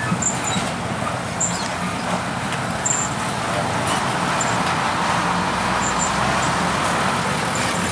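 Steady road traffic noise from vehicles passing a railway level crossing, with short high chirps now and then.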